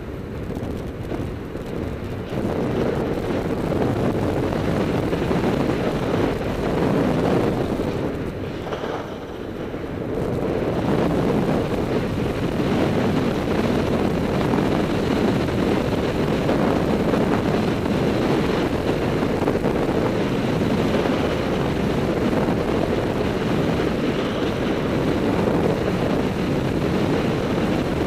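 Steady rushing wind noise on the microphone while skiing downhill, easing briefly about eight seconds in before building again.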